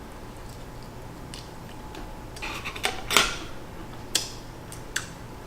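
Someone eating rice noodle stir fry: utensils click against a dish several times, with a brief louder noisy stretch about three seconds in.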